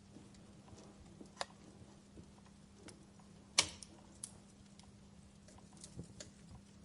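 Wood campfire crackling: scattered sharp pops and snaps at irregular intervals, the loudest a little past halfway through.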